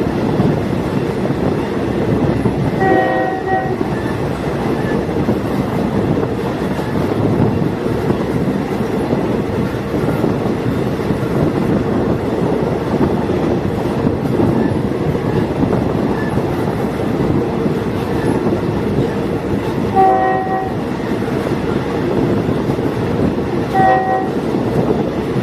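Thai diesel multiple unit train running with a steady rumble, its horn sounding three short blasts: one about three seconds in and two close together near the end.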